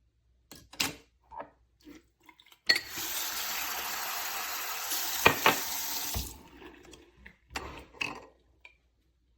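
Water runs for about three and a half seconds, starting and stopping abruptly, with small clicks and knocks of hard parts being handled before, during and after it.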